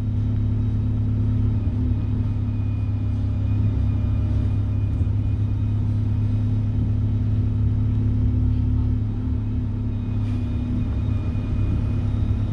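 Alexander Dennis Enviro200 single-deck bus running with a steady low diesel drone and a thin, high turbocharger whine above it, the engine note easing slightly about nine seconds in.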